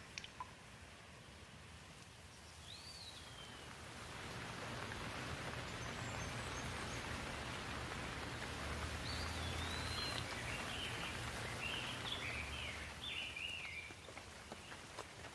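Rain falling steadily, swelling a few seconds in and easing off near the end, with a low roll of distant thunder in the middle. A few birds chirp over the rain.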